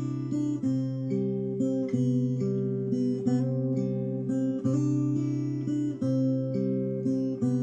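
Acoustic guitar strumming chords as an instrumental passage between sung lines.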